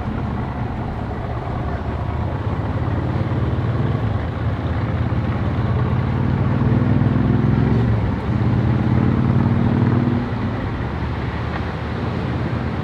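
Boat engine running at low speed near the ramp, a steady drone that picks up a little about six seconds in and eases back again about ten seconds in.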